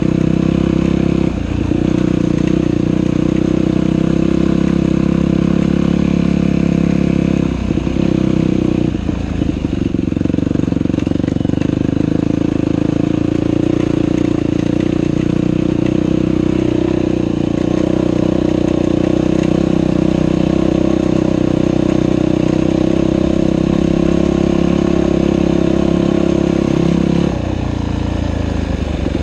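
Dirt bike engine running steadily while riding a trail, its note dipping briefly about a second in, twice around eight to nine seconds, and again near the end.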